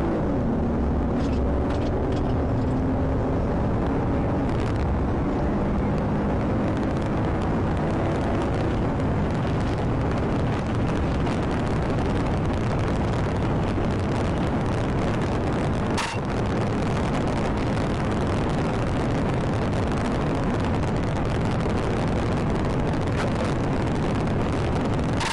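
Police car accelerating hard in pursuit, its engine note climbing over the first several seconds, then a steady rush of wind and road noise at high speed. A single sharp click about 16 seconds in.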